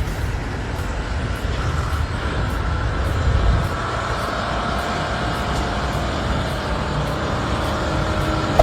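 Heavy truck engine running, a steady low drone with a faint whine above it.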